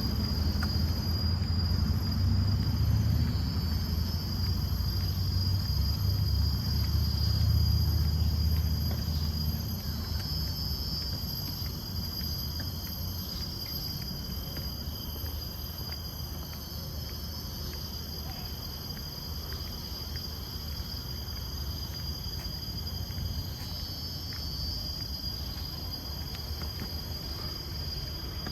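Forest insect chorus: several steady, high buzzing tones that swell and ease every few seconds. A low rumble underneath fades out about a third of the way in.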